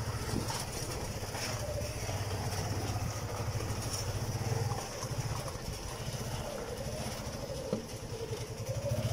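Motorcycle engine running as the vehicle rolls slowly, with a steady, rapid low chug that eases off about five seconds in.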